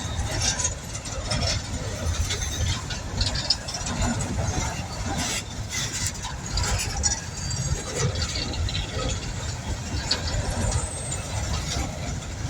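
Loaded coal train cars rolling past: a steady low rumble with repeated sharp clicks and squeaks from the wheels on the rails.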